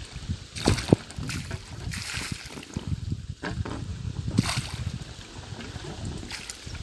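Air-lifted borewell water gushing and splashing out of the delivery pipes, surging irregularly as compressed air from the compressor drives it up.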